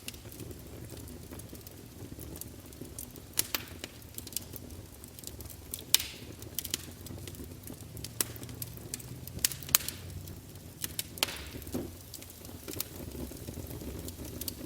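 Wood fire burning in a fireplace: a low steady rumble of flames with irregular sharp crackles and pops from the burning logs, a few louder snaps scattered through.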